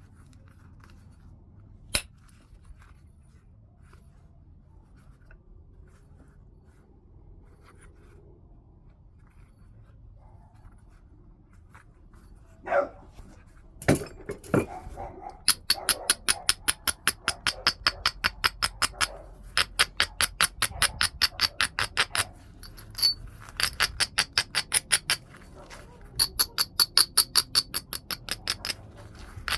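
Knapping a heat-treated Burlington chert preform: a single click about two seconds in, a few knocks a little before the halfway point, then quick runs of short stone-on-stone scraping strokes, about five a second, with brief pauses between runs. Such rapid rubbing strokes are how the edge is abraded to prepare striking platforms.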